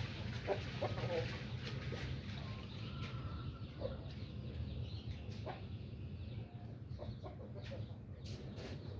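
Chickens clucking, with short calls scattered through over a steady low background rumble.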